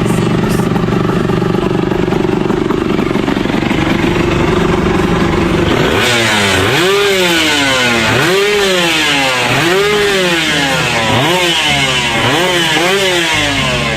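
Motorcycle engine running steadily, then, from about six seconds in, revved repeatedly: about six quick rises and falls in pitch, a second or so apart.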